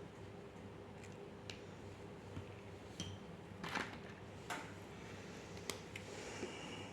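Faint scattered clicks and taps of drawing on paper, with one brief scratchy stroke about halfway through, over a steady low hum.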